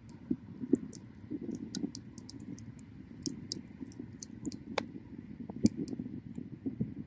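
Wood bonfire crackling: irregular sharp snaps and pops, a few louder than the rest, over the low rush of the flames.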